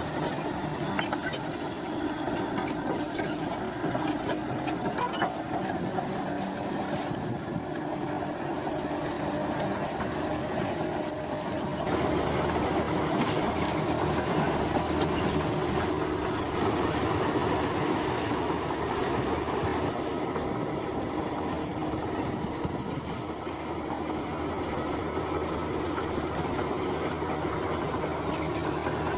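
Crawler bulldozer working: its diesel engine runs steadily while the steel tracks clank and squeal. The machine gets louder about twelve seconds in.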